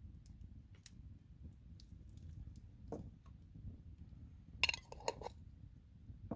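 Metal cookware or utensils being handled: a few light clicks, then a quick run of metallic clinks about four and a half seconds in, over a low steady rumble.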